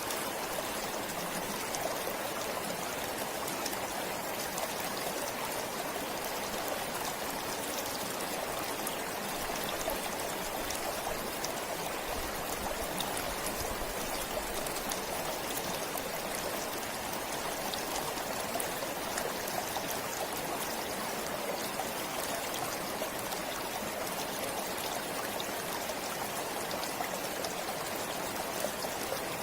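Forest stream flowing steadily, water running and trickling over stones with a fine splashing patter.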